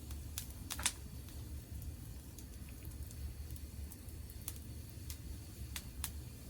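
Wood campfire crackling: a handful of sharp isolated pops, the loudest pair about a second in and a few more near the end, over a low steady rumble.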